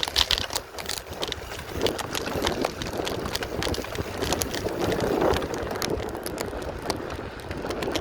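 Wind buffeting a phone microphone, a steady low rumble, with scattered clicks and knocks of handling or movement throughout.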